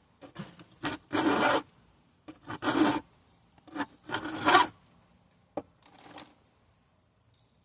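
Hand file rasping across a chainsaw chain's teeth in three long strokes about a second and a half apart, with a few shorter, lighter strokes between them and a faint last one near the end.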